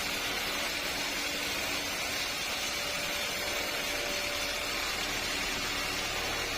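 Sawmill machinery running steadily: an even, hiss-like noise with a faint hum underneath and no breaks or impacts.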